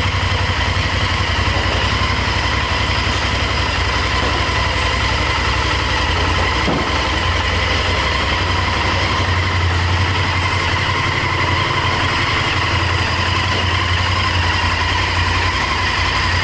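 Honda Varadero 1000's V-twin engine idling steadily at an even pitch.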